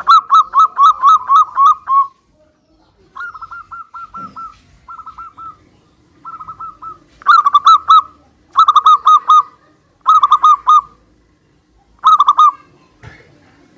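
Zebra doves (perkutut) cooing in bursts of quick, rippling notes, about eight phrases. Loud phrases alternate with fainter ones, as if two birds are answering each other.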